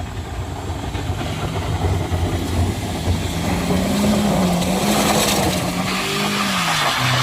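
A motor vehicle's engine straining under load as it climbs a steep hill. The engine note rises, holds unsteadily, then drops near the end, and grows louder through the middle.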